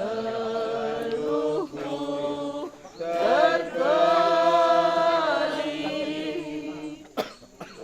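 Several voices singing together in long held, chant-like notes, sliding slowly from one pitch to the next and fading near the end. A single sharp knock sounds about seven seconds in.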